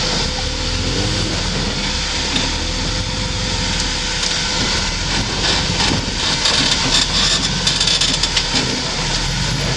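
Off-road vehicle engine running under load, mixed with strong wind noise on the microphone and frequent knocks and crunches from rough ground, which grow thicker in the second half.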